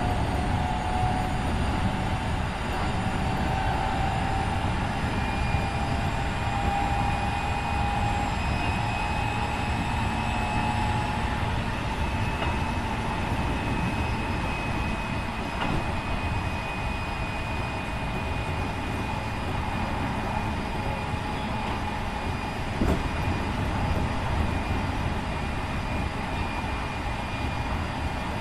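Keikyu 1500 series electric train (refurbished with Mitsubishi IGBT-VVVF equipment) running at speed, heard from inside the car: a steady rumble of wheels on rail with faint motor whine tones, one of which rises slightly over the first several seconds and then holds.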